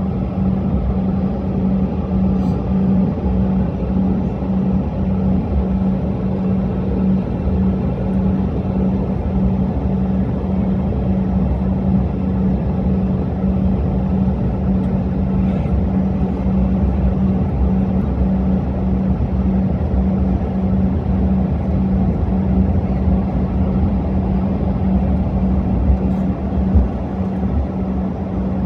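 Steady engine rumble with a constant low hum.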